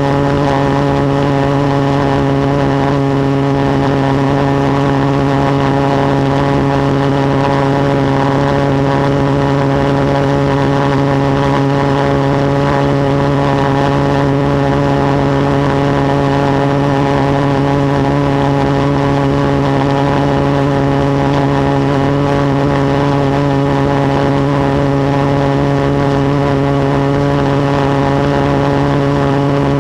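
Reed-valve pulse jet engine running steadily under its own power: a loud, even drone of one unchanging pitch. The reeds, held with neoprene rubber, are still intact and the engine is holding a stable pulse.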